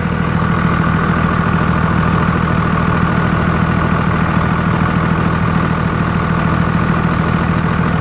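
Cummins 5.9 inline-six turbodiesel running at a steady speed with a rapid, even clatter. It carries a thumping or knocking that the owner cannot identify.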